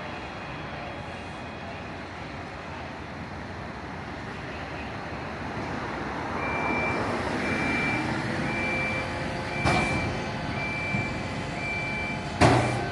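A fire truck backing up, its reversing alarm beeping at an even pace of about one beep a second over a steady engine run. Two sudden loud sounds cut in, near ten seconds and near the end, the second the loudest.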